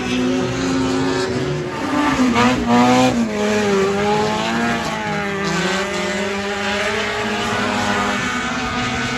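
Sport compact race car engine running, its pitch rising sharply about two and a half seconds in, then dropping back and rising and falling through the rest.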